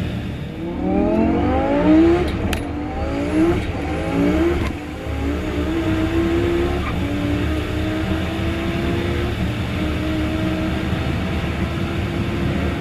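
Twin-turbo Lamborghini Huracan V10 at full throttle, its engine note climbing and dropping back with each quick upshift over the first few seconds, then holding one long, slowly rising note in top gear. There is a sharp crack about two and a half seconds in.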